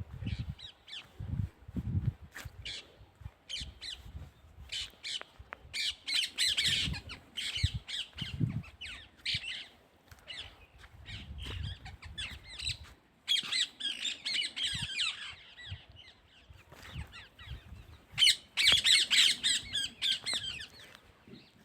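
Birds calling in repeated short bursts, coming in thick clusters several times, with low thumps and rumbling underneath in the first half.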